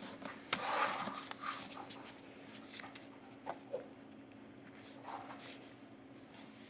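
Origami paper rustling and creasing as it is folded by hand, with faint scattered taps. A brief faint squeak comes about three and a half seconds in, over a low steady hum.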